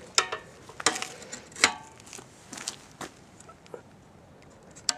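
Sharp metal clinks and knocks with a short ring after each, about four in the first three seconds, then a few fainter taps. They come from metal parts of the antique air compressor being handled.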